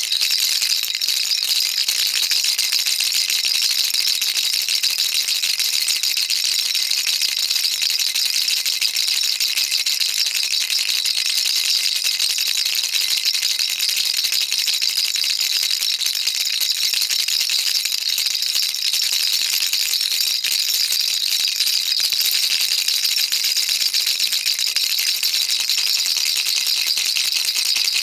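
Baby rattle shaken continuously, a dense, steady, high-pitched rattling of small beads with no pauses.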